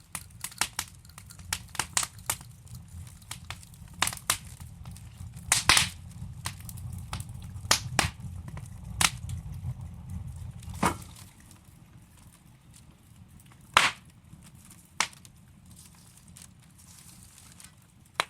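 Wood fire in a fireplace crackling, with irregular sharp pops and snaps from the burning logs. A low rumble underlies the first part and drops away about eleven seconds in.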